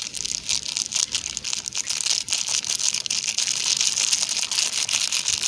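A packet of cocoa powder crinkling and rustling steadily as it is handled and poured, with a dense run of fine crackles.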